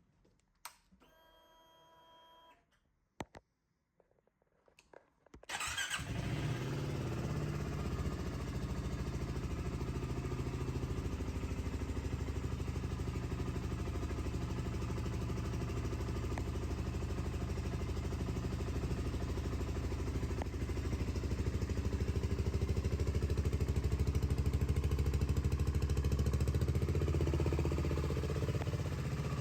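BSA Gold Star 650's 652cc single-cylinder engine starting about five and a half seconds in, after a brief whine and a couple of clicks, then idling steadily with a slight rise in level in the later part.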